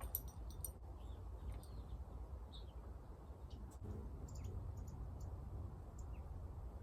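Small birds chirping faintly in short, scattered high notes, busiest near the start, over a low steady rumble.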